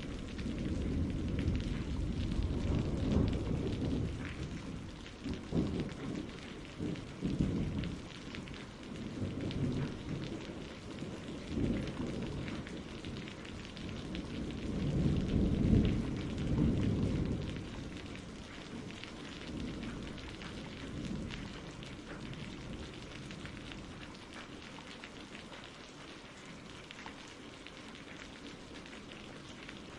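Steady rain with rolling thunder: low rumbles swell in the first few seconds and again about halfway through, then die away, leaving the rain hiss alone.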